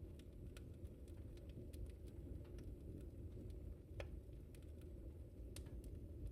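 Wood fire crackling in a fireplace: scattered sharp pops and ticks over a steady low rush of the flames, with one louder pop about four seconds in.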